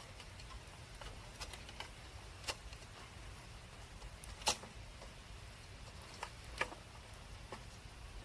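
Campfire crackling: sparse sharp pops from the burning wood, the loudest about four and a half seconds in, over a low steady rumble.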